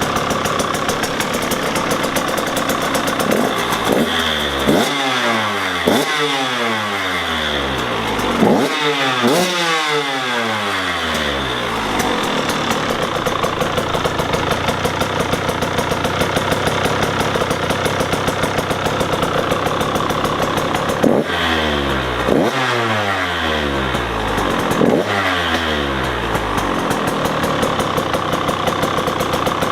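Freshly rebuilt Husqvarna TC 125 single-cylinder two-stroke engine running, idling steadily between quick throttle blips that rev up sharply and fall back to idle. A cluster of several blips comes a few seconds in, and another after about twenty seconds.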